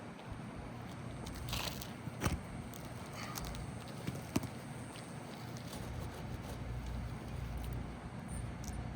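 Scraping and two sharp taps from hand work on roof shingles, over a low rumble of wind on the microphone.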